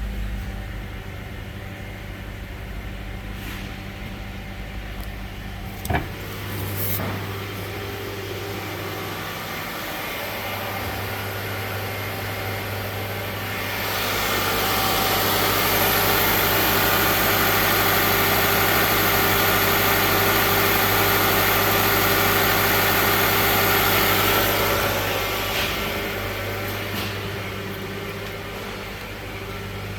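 2012 Subaru Legacy 2.5-litre flat-four engine running at a steady idle. About halfway through it gets louder with added hiss for roughly ten seconds, then eases back to the idle sound.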